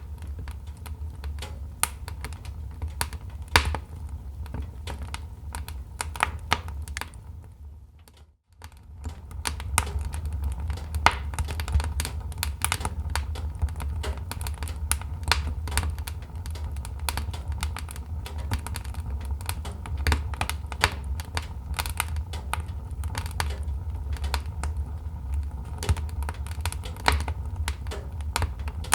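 Wood fire crackling in a fireplace: dense, irregular snaps and pops over a steady low rumble of burning. The sound drops out briefly about eight seconds in, then resumes.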